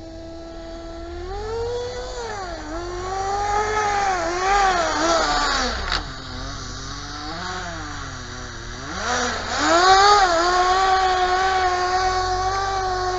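Small nitro glow engine of a radio-controlled Kyosho Blizzard running with a high buzzing pitch, revving up and down repeatedly. The revs fall close to idle about six seconds in, then climb sharply again around nine seconds and hold high.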